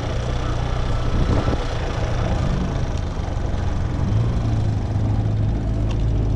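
Motorcycle engine running steadily under the rider, with road noise around it. The engine grows a little louder about two thirds of the way through.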